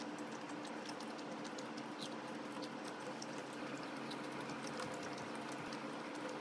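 Close-miked chewing of sauce-coated fried rice cakes (tteok-twigim): a steady stream of small wet mouth clicks, over a faint steady hum.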